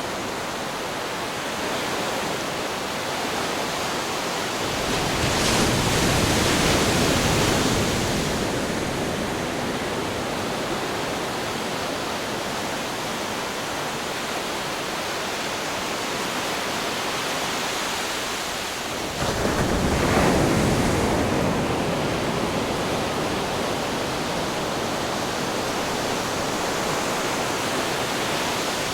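Ocean waves breaking against rocks: a constant wash of surf with two bigger waves hitting, one about five seconds in and another that strikes suddenly a little past the middle.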